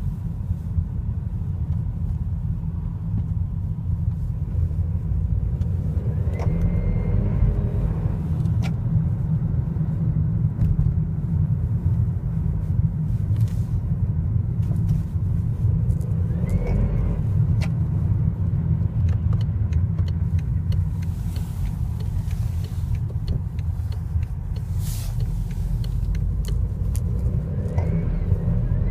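BMW N20 2.0-litre turbocharged four-cylinder engine running with a steady low rumble. A brief whistle that rises and falls in pitch sounds three times, about ten seconds apart.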